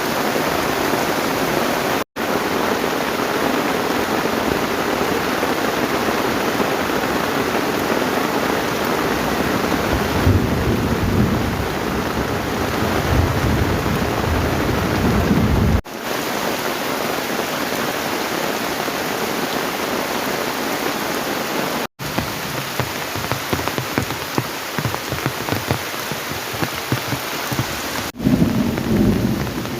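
Heavy rain falling steadily, with deeper low rumbles around the middle and again near the end. The sound cuts out for an instant three times, at edits.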